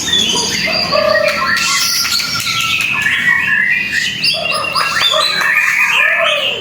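White-rumped shama (murai batu) singing loudly without a break: a rapid, dense run of varied whistles, glides and harsh chattering notes.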